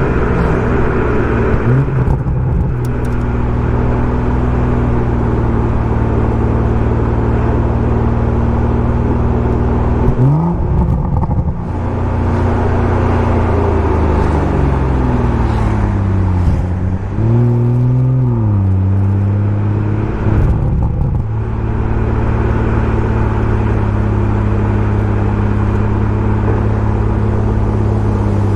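BMW M140i's turbocharged 3.0-litre straight-six with a Remus aftermarket exhaust, under way at a steady engine speed. Near the middle the pitch jumps up, slides slowly down over a few seconds, then rises and falls briefly twice before settling into a steady drone again.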